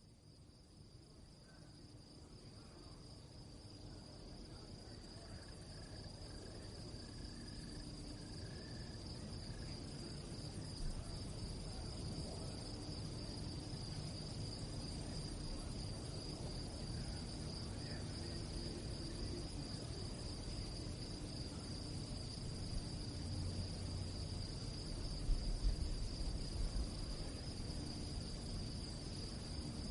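Crickets chirping in a steady, continuous high trill at night, fading in over the first several seconds, over a low background rumble.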